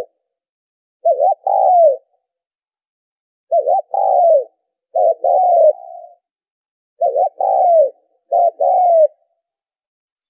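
Spotted dove cooing in five phrases about a second apart, each a quick double note followed by a longer coo that falls in pitch. It is a recorded dove call of the kind played to lure wild doves.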